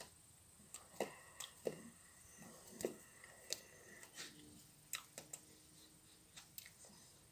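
Faint, scattered clicks and light taps, about a dozen at irregular intervals, over quiet room tone.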